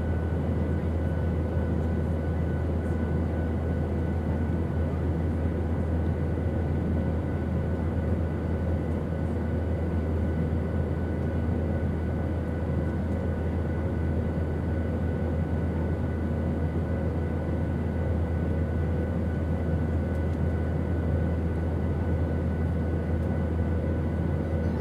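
Airplane engine noise: a steady, unchanging drone with a strong low rumble and a few faint constant tones riding above it.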